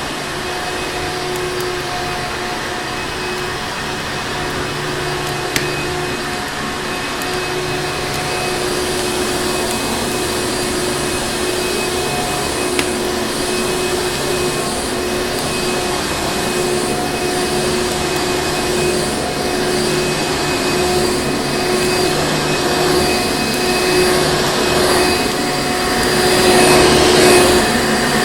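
Vacuum cleaner motor running steadily: an even rushing of air with a steady whine over it. It grows louder and more uneven near the end. Two brief clicks come through, one about six seconds in and one about thirteen seconds in.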